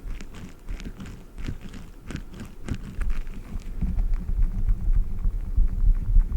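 Squishy dumpling toys squeezed and handled right against the microphone: irregular sticky crackles and squishes over low handling rumble, which grows heavier in the second half.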